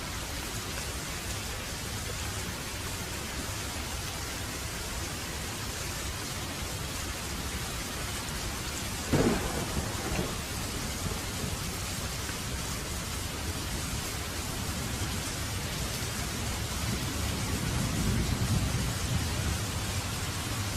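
Steady heavy rain with thunder: a sharp crack of thunder about nine seconds in, then a low rolling rumble that swells near the end.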